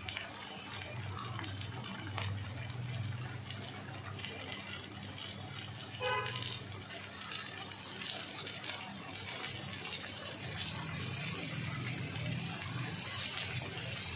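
Raw chicken pieces sizzling in hot oil and fried onion masala in a kadai: a steady frying hiss that grows brighter over the last few seconds.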